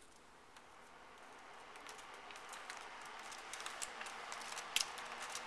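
Deco Breeze retro box fan running: a faint, even rush of air that grows steadily louder through the first few seconds, with a few faint clicks.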